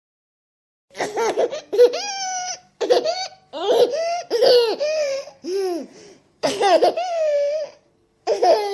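A baby laughing in a string of high-pitched bursts with short pauses between them, starting about a second in.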